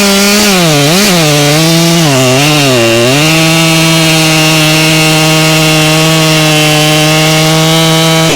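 Two-stroke chainsaw at full throttle cutting through a tree stump; the engine pitch dips and recovers a few times under the load of the cut, then holds steady.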